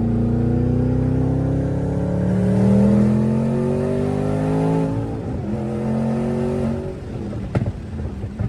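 Twin-turbocharged 2014 Mustang GT's Coyote 5.0 V8 accelerating hard, its note rising through a gear for about five seconds. The pitch drops at an upshift, climbs again briefly, then the throttle lifts off and the engine runs rougher, with one sharp click shortly before the end.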